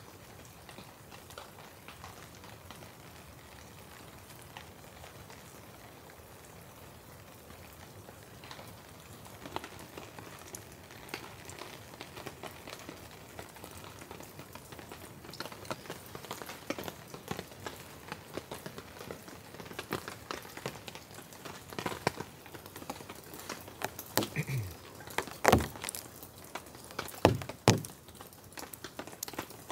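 Rain pattering steadily on a tarp overhead, with scattered individual drops ticking. Near the end come a few louder knocks and clicks.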